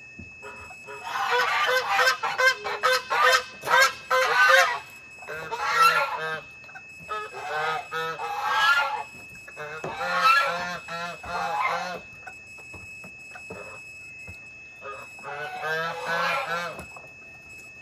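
Geese honking: a flurry of repeated calls in about five bouts, with short pauses between them.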